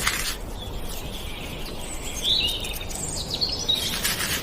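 Steady outdoor background noise with a few faint, high bird chirps, about halfway through and again a little later.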